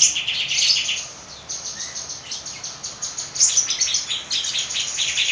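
Songbird singing fast, chattering trills in a 'fighter' style song, busy at the start, sparser for a couple of seconds, then intense again from a little past the middle.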